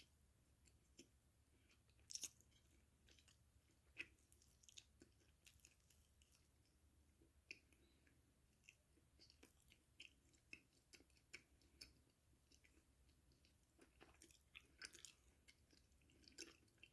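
Faint close-up sounds of a person biting and chewing crunchy food: irregular crisp crackles and mouth clicks, with louder crunches about two and four seconds in and a cluster near the end.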